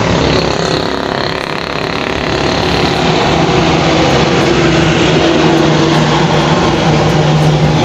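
A motor vehicle engine running steadily, with a low hum that grows stronger in the second half.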